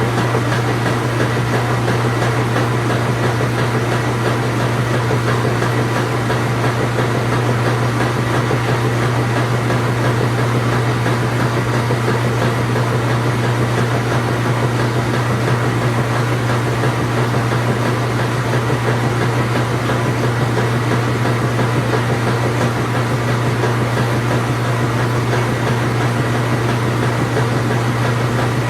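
Truck engine running steadily at constant speed, a low even hum with no revving or change in pitch.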